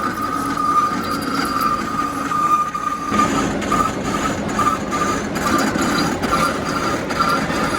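Metal lathe running with a steady high whine and a lower hum, and the rougher noise of the tool cutting metal growing louder about three seconds in.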